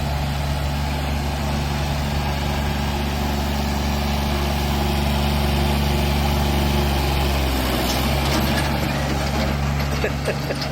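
Kubota tractor's diesel engine running steadily at idle, its pitch dipping briefly about eight seconds in. A few light clicks near the end.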